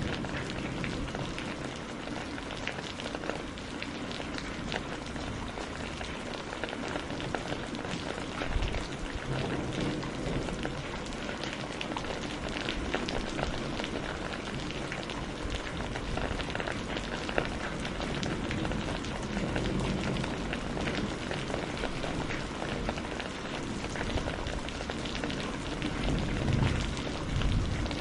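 Steady rain with crackling burning firewood, fine pops and ticks over an even patter. A low rumble swells twice, about a third of the way in and near the end.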